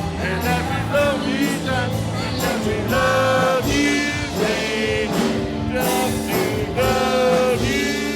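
Live band playing a song, with sung vocal lines held and wavering over bass and regular drum beats.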